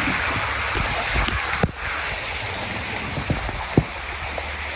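Steady rush of flowing, splashing water, with a few short knocks, the loudest about four seconds in.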